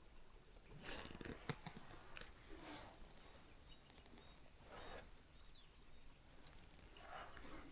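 Quiet outdoor ambience: a small bird gives faint high chirps with short falling notes about halfway through, over a few soft rustles.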